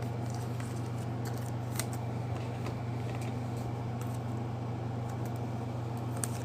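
Faint scattered clicks and light rustles of trading cards being handled, over a steady low hum.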